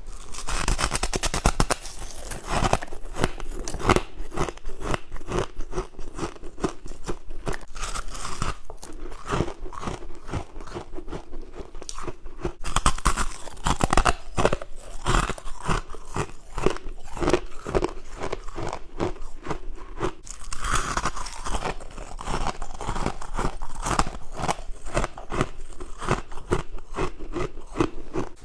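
Someone biting and chewing white frost ice: a dense, unbroken run of crisp crunches, several a second.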